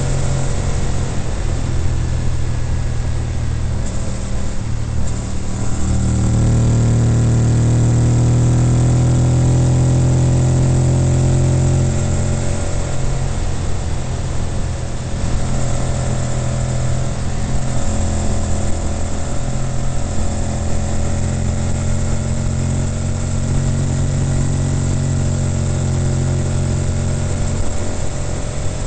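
Honda VTR1000F Firestorm's 996 cc V-twin running through a Staintune exhaust as the bike rides along a highway. It grows louder and steadier for several seconds from about six seconds in, then eases off and varies through the bends, over wind and road noise.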